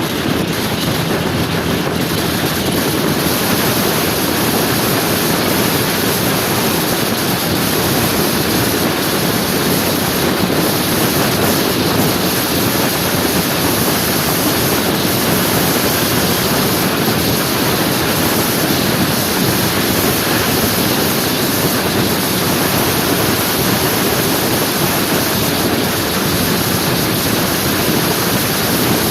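Steady rush of wind and road noise from riding a motor scooter, with wind buffeting the microphone.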